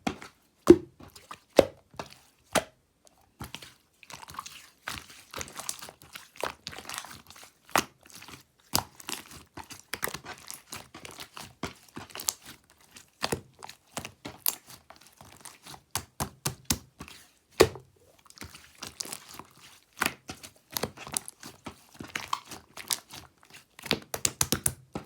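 Slime being squeezed and pressed by hand: a dense, irregular run of sharp pops and clicks from trapped air pockets, with softer crackling between them.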